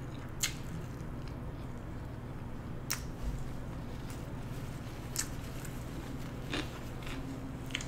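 Quiet chewing of a mouthful of food with the mouth closed, with a few faint sharp clicks scattered through it over a low steady hum.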